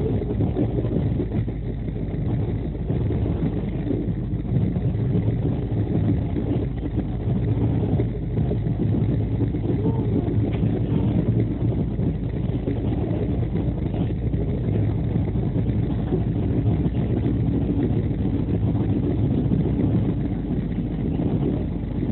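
Steady low rumble of an Indian Railways Duronto express coach running at speed on the track, heard from inside the coach.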